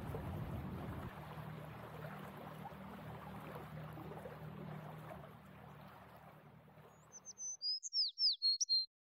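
A boat's engine hums low and steady under wind and water noise, fading away over several seconds. Near the end a songbird sings a short phrase of quick chirps and falling whistles, the loudest sound, which cuts off abruptly.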